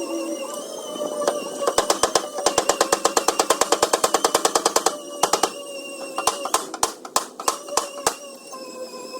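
Body hammer tapping out dents in a Ford Ranger's door panel: a fast even run of about seven taps a second for a couple of seconds, then scattered single taps. Steady background music plays throughout.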